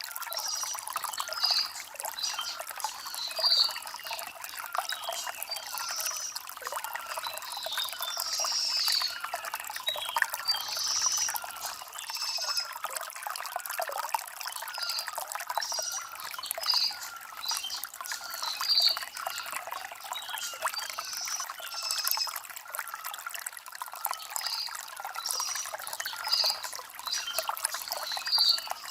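Shallow stream trickling and gurgling over stones: a constant, busy patter of small splashes and bubbling, light and high with no deep rumble.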